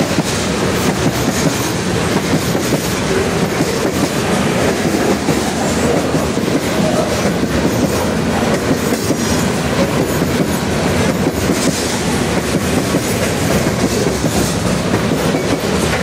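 Covered hopper cars of a freight train rolling past close by at speed: a steady, loud rumble of steel wheels on rail with frequent quick clicks.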